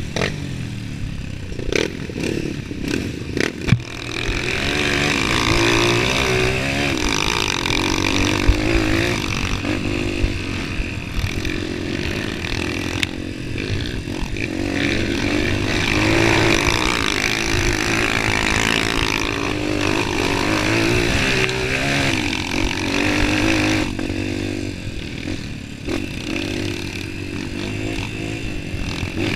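Honda CRF230 trail bike's single-cylinder four-stroke engine running on a dirt trail, its pitch rising and falling with the throttle. A few sharp knocks and rattles from the bike over rough ground come in the first few seconds.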